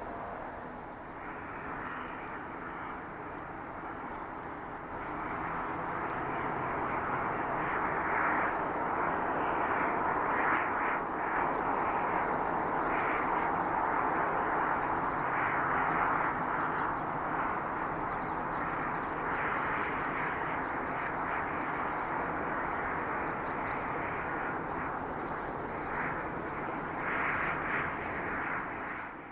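Jet noise from an Airbus A330-202's two GE CF6-80E1 turbofans: a steady rush that grows louder about five seconds in and holds.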